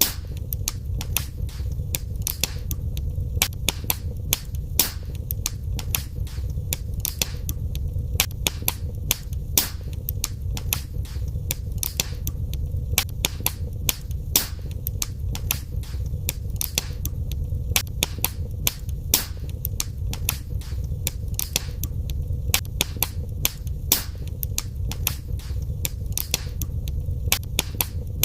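Wood fire in a fireplace crackling: several sharp, irregular pops and snaps every second over a steady low rumble of the flames.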